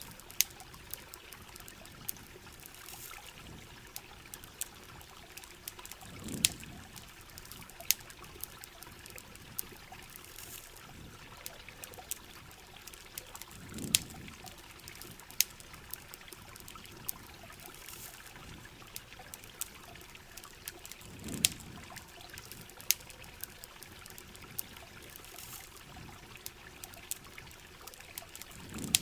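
Steady rain hiss with sharp, irregular crackles and pops from a campfire scattered throughout. A low swell rises and fades about every seven and a half seconds.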